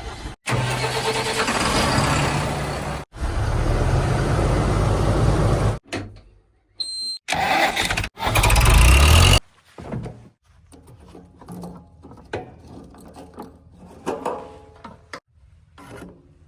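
Heavy diesel machinery engines running, in several loud stretches that cut off abruptly, then a quieter rumble with scattered knocks for the last few seconds.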